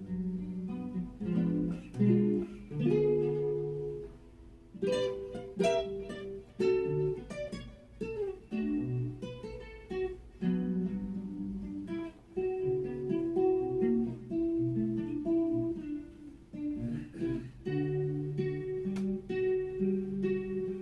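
Guitar music: a plucked acoustic guitar playing notes and chords, with brief pauses between phrases.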